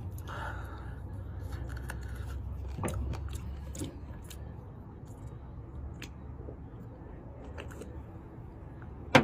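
Eating chicken wings: quiet chewing with scattered small clicks and crackles, over a steady low rumble. A sharp knock comes at the very end.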